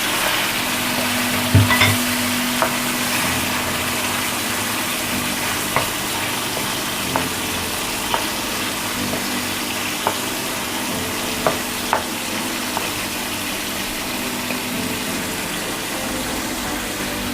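Chicken and freshly added tomatoes sizzling in a frying karahi, with a steady hiss. A spoon or spatula knocks against the pan now and then as the mix is stirred, loudest about a second and a half in.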